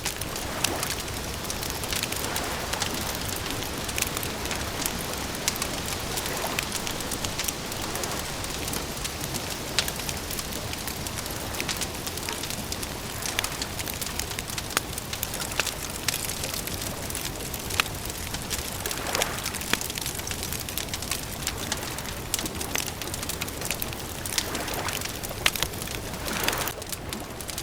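Campfire crackling: a steady hiss with frequent sharp snaps and pops.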